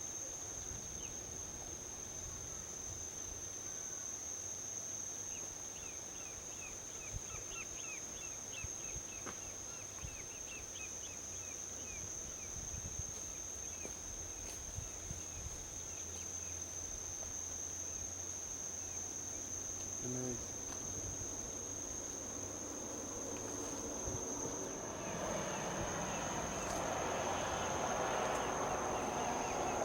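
Steady high-pitched insect trill throughout, with a run of quick bird-like chirps in the first third. Near the end the rushing noise of highway traffic swells and grows louder.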